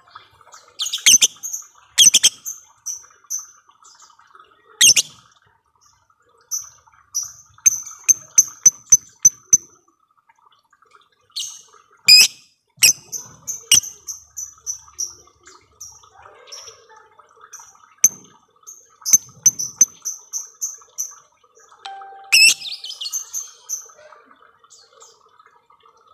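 Lovebirds chattering: runs of rapid, high, evenly repeated chirps (the long 'ngekek' trill), broken up by sharp single ticking calls.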